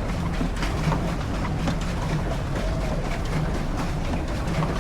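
Swan pedal boat moving along a canal: a steady rush of water and wind noise, with a low churning that swells at roughly regular intervals.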